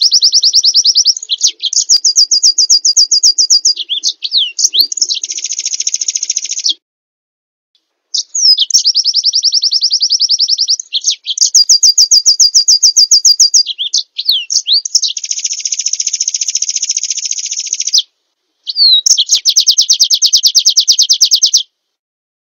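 A small songbird singing loud, very fast, high trills and buzzy rattles in three long phrases, with short silent breaks about seven seconds in and about eighteen seconds in. The song stops abruptly near the end.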